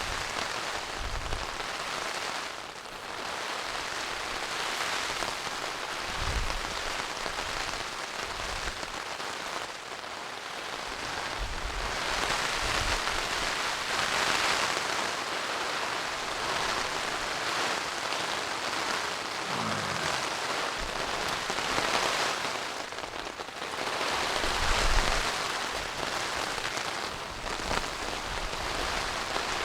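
Steady heavy rain falling, swelling and easing every few seconds, with a few short low thuds.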